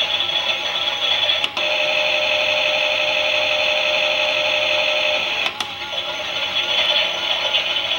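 Toy Klein Miele washing machine running, a small electric motor whine that wavers in pitch. A sharp click comes about a second and a half in, the whine then holds steady and even, and another click comes about five and a half seconds in, after which the wavering returns.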